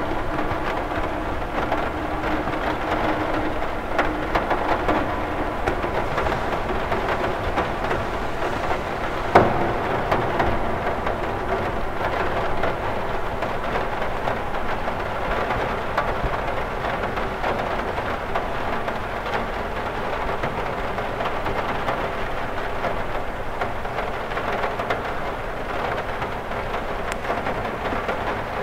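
Rain falling steadily on a cathedral window, a constant hiss of water dotted with individual drop taps. One sharper tap comes about nine seconds in.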